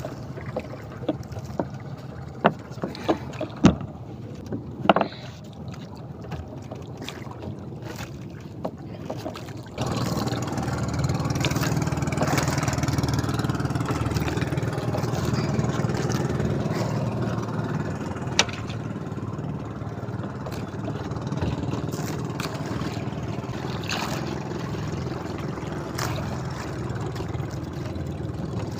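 A few sharp knocks on a small boat. About ten seconds in, a motorboat engine's steady running noise cuts in abruptly and continues with water and wind noise.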